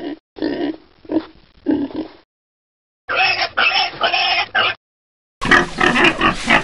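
Domestic pigs grunting and oinking, in three separate bursts of about a second and a half to two seconds each, with dead silence between them.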